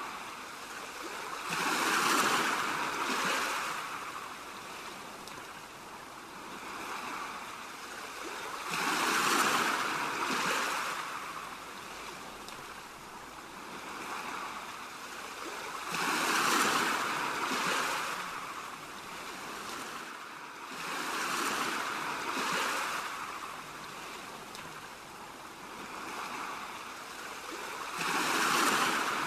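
Ocean waves washing in on a shore, the surf rising and falling in slow swells every few seconds, some surges louder than others.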